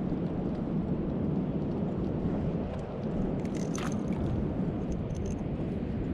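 Wind buffeting the microphone over water noise aboard a kayak at sea, steady throughout, with a few light clicks and ticks between about three and a half and five and a half seconds in.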